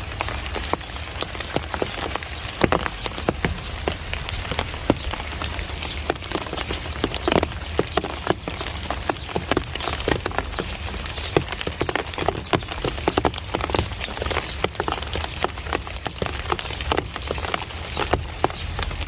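Steady monsoon rain falling, an even hiss with many close, sharp drops striking hard surfaces all through.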